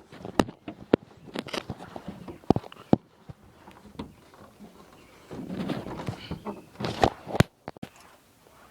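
Scattered sharp knocks and clicks with scuffing in between, like footsteps and handling. The engine is not running.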